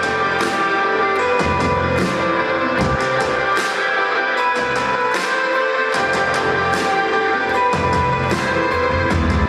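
Live rock band playing an instrumental passage, electric guitar to the fore over bass and drums with regular beats.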